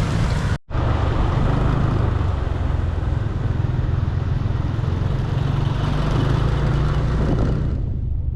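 Small motor scooter running steadily on the move, its low engine note mixed with wind and road noise; the sound drops out for an instant about half a second in.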